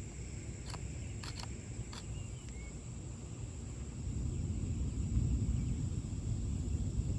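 Low, choppy rumbling of strong storm wind gusting across the microphone, growing louder about four seconds in, with a few sharp clicks between one and two seconds in.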